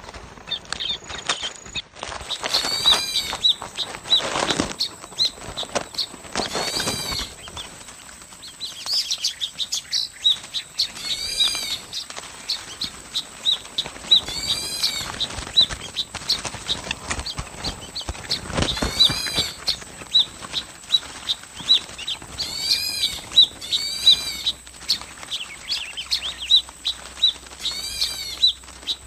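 A flock of birds chirping constantly, with a louder arched call repeating about every four seconds and several brief bursts of wing flapping.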